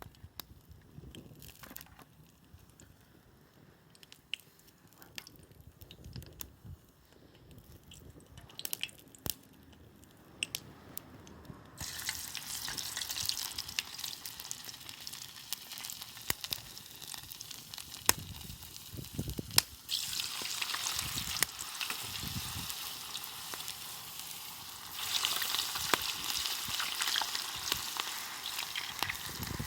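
Food frying in a pan over a campfire: a sizzle starts abruptly about twelve seconds in and gets louder again near the end. Before it, only scattered clicks and taps.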